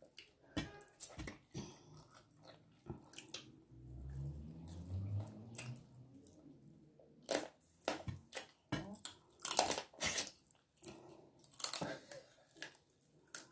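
Close-up eating sounds: chewing and lip smacking, with irregular sharp crunches and clicks as meat is bitten and gnawed off the bone.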